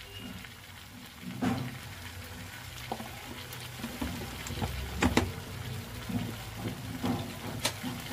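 Sliced potatoes frying with cumin seeds in oil in a kadai: a soft, even sizzle, broken by a handful of sharp taps and clicks, the loudest about five seconds in.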